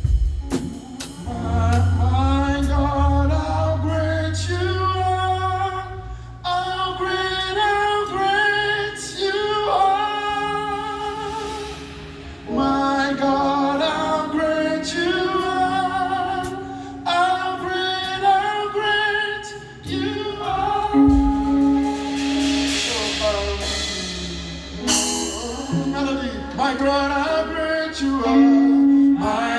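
Gospel praise song performed live: a group of singers over a band with bass guitar and drums, with a cymbal swell a little past the middle.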